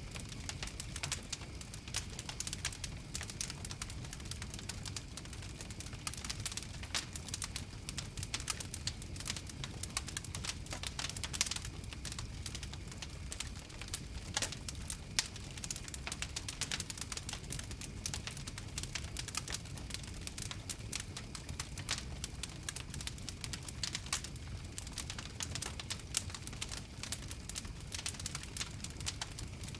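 Wood fire crackling: dense, irregular pops and snaps over a low, steady rumble of flames.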